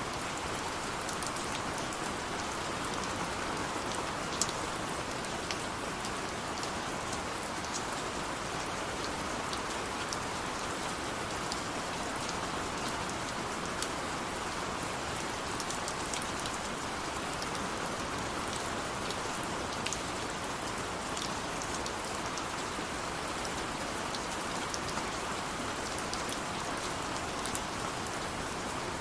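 Steady rain falling on a surface, with an even patter and scattered individual drops ticking through it.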